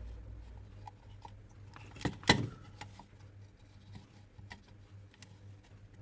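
Hair dryer parts being handled and fitted back together: small plastic clicks and rattles, with one sharp knock a little over two seconds in as the heater assembly is pressed into its housing.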